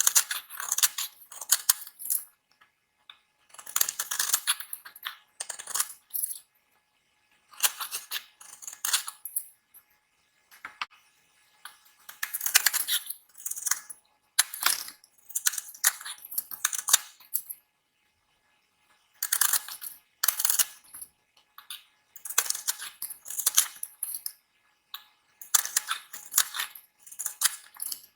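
Knife cutting and carving a bar of dry soap: crisp, crackly scraping in runs of one to three seconds, with short silent pauses between cuts.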